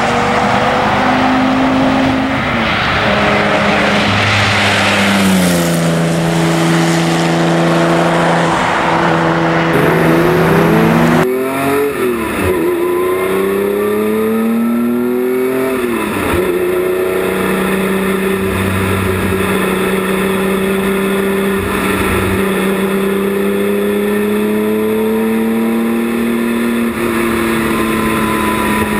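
Porsche 917 replica's engine running hard on the road, its revs climbing and dropping several times as it is driven through the gears. For the first part it is heard from outside the car with road and wind noise. About a third of the way in the sound switches to the engine as heard inside the cockpit.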